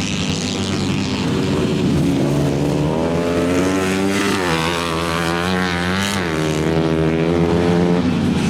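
A 125 cc engine running, its revs rising and falling: it climbs, drops back sharply about halfway through, climbs again and settles into a steady higher run near the end.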